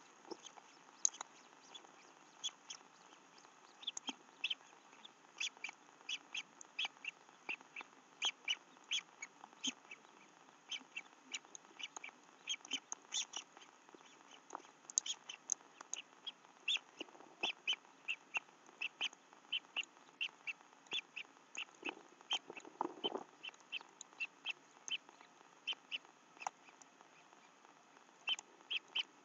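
Birds chirping: many short, high chirps, a few each second, with a brief lower call about two-thirds of the way through.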